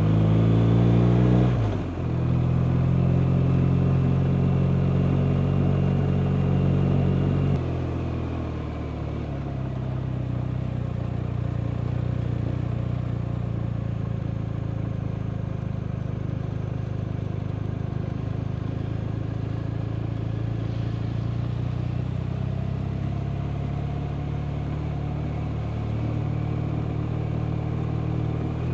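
BMW R 1250 RT's flat-twin boxer engine running under way: the revs climb, then drop sharply with a gear change about two seconds in and hold steady. About seven and a half seconds in the engine note falls and gets quieter, staying low and steady to the end.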